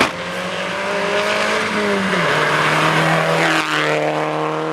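Rally car engine running hard, its pitch dropping about two seconds in and then holding steady, after a sharp click at the very start.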